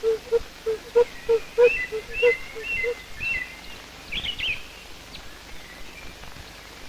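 Woodpecker hammering at wood, a quick series of hollow knocks about three a second that stops about three seconds in. Chirping bird calls join over the knocking and run on until about four and a half seconds.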